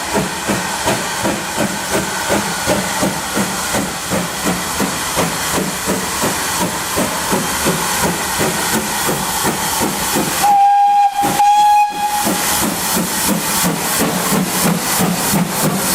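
Steam locomotive 6695, a GWR 5600 class 0-6-2 tank engine, working with a steady, rhythmic chuff of about four exhaust beats a second. About two-thirds of the way through it gives a loud whistle blast lasting about a second and a half.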